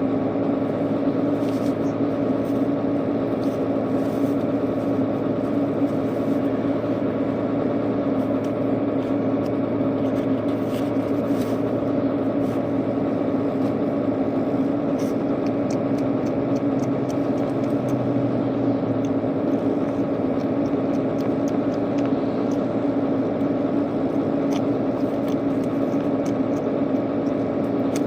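A steady machine hum with a constant pitched drone runs without a break. Faint small clicks are scattered through it.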